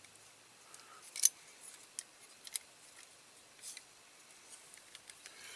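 A few small, sharp metallic clicks and scrapes, the loudest about a second in and another about two and a half seconds in. They come from a small tool picking at the pinched metal tabs that hold the bonnet of a Corgi Whizzwheels Mercedes-Benz 350SL diecast model.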